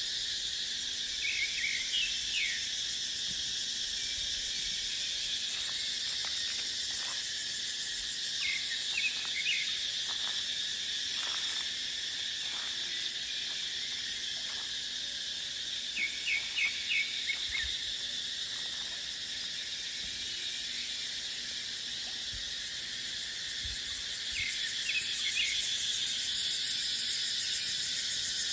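Cicada chorus, a steady high buzz, with a bird giving short bursts of three or four chirps about four times. Near the end the cicada buzz grows louder and pulses rapidly.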